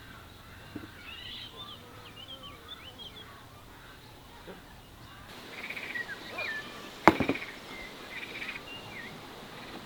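Birds chirping in short, rapid calls, with one sharp knock about seven seconds in.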